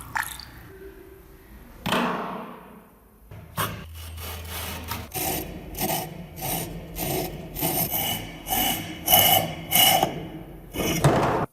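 Hand scrubbing on the rusty metal of a manual meat grinder during rust removal: quick back-and-forth strokes, about two to three a second, after a single knock about two seconds in. The strokes cut off suddenly at the end.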